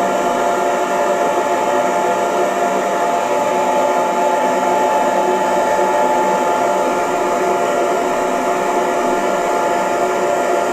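Hair dryer running steadily, a constant rush of air with a motor whine held at one pitch.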